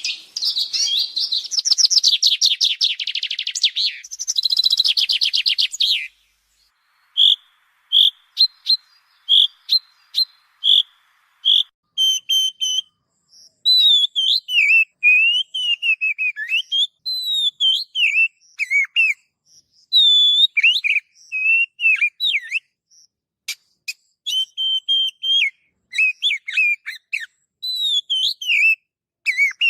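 Recorded songbird song: a fast, dense chattering trill for about the first six seconds, then after a short pause a string of separate short chirps, and from about twelve seconds on varied whistled phrases that glide up and down.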